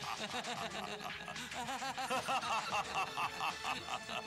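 A man laughing in a long run of rhythmic 'ha-ha' pulses, about four or five a second, over background music.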